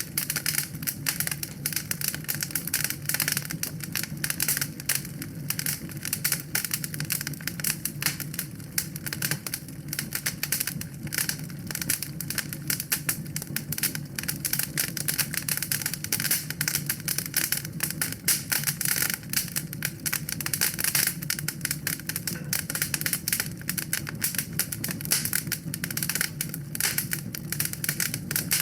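Wood fire crackling in a fireplace: dense, rapid, irregular pops and snaps over a steady low rumble.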